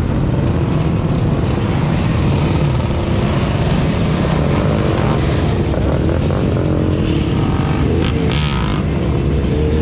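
Car engines running loud with a deep, steady rumble, the low drone of high-performance V8 muscle cars such as Dodge Charger Scat Packs and Hellcats.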